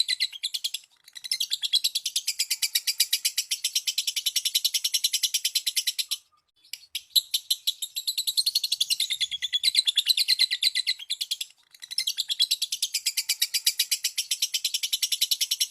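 Lovebird giving its long chattering trill (the hobbyists' "ngekek"): rapid high repeated notes in three runs of about five seconds each, broken by brief pauses. Played as a lure call to set other lovebirds singing.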